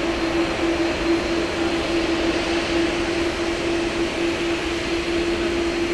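Jet engines of a Boeing 777 freighter during its landing pass, a steady loud rush with a constant low hum note under it.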